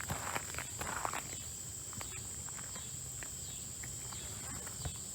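Steady high-pitched drone of an insect chorus, with a few rustling crunches in the first second or so and scattered light clicks.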